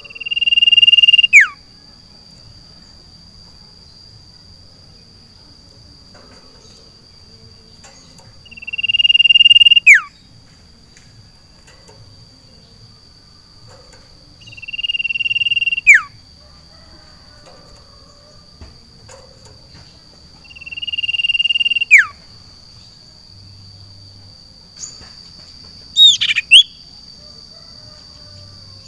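Common iora (sirtu) singing: a long, steady whistle that swells and then drops in a quick downward slur, four times about six seconds apart, with a shorter double call near the end. A steady high insect drone runs underneath.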